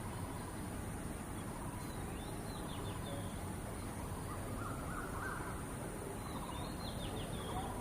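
Crows cawing in a few short bouts over steady outdoor background noise.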